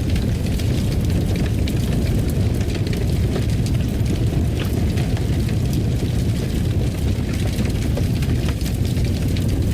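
Wood fire crackling in a fireplace: a steady low rumble with scattered sharp snaps and pops.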